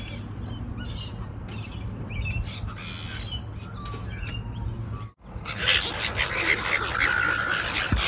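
Birds squawking and chirping in repeated short calls over a steady low hum; the sound cuts out abruptly about five seconds in and comes back louder.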